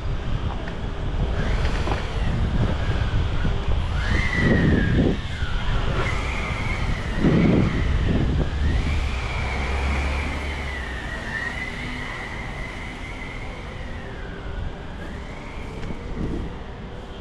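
Wind buffeting the microphone of a moving bicycle, a steady low rumble with a few louder gusts. A thin high whine wavers up and down in pitch through most of it.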